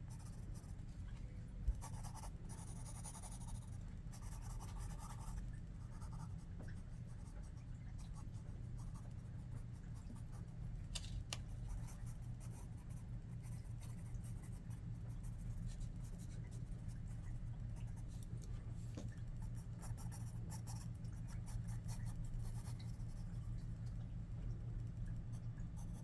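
Pencil scratching on paper in irregular strokes while sketching, over a steady low hum, with a single click about two seconds in.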